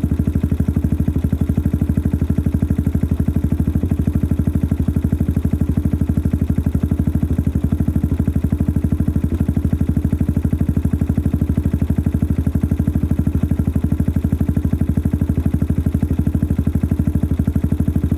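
Yamaha XT 600 (43F) single-cylinder four-stroke engine idling steadily through a modified stock exhaust, with an even, rapid pulse. The engine runs noisily.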